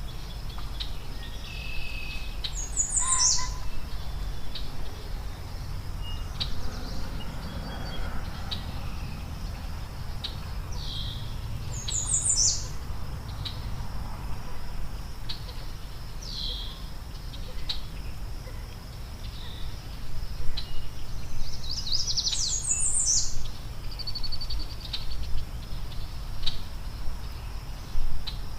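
Wild birds singing outdoors: short phrases of quick, high, sweeping notes repeated every several seconds, the busiest near the end. Under them, a steady high hum and scattered light clicks and knocks.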